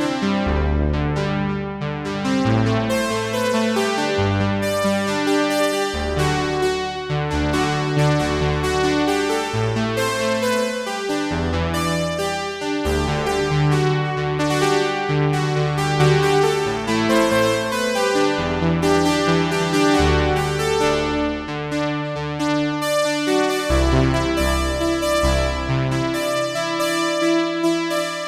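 Sequential Prophet 6 analog polyphonic synthesizer playing a patch: chords with sharp-edged note attacks over a bass line that moves to a new note every second or so, with the bass dropping lower about two-thirds of the way through.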